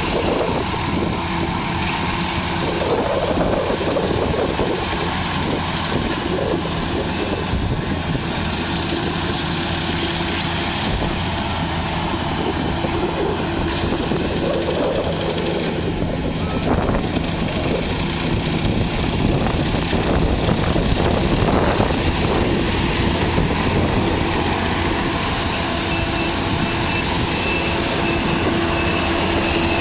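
Engine of rice-harvesting machinery running steadily, a constant engine hum under dense mechanical noise.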